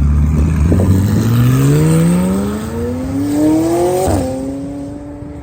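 A car accelerating hard with a loud exhaust: the engine pitch climbs steadily for about four seconds, drops sharply at an upshift, then holds steady as the car pulls away and fades.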